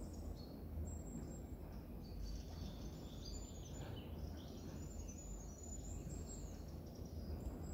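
Faint, high, thin bird chirps repeating in the woodland, over a steady low rumble of wind or handling noise on the microphone.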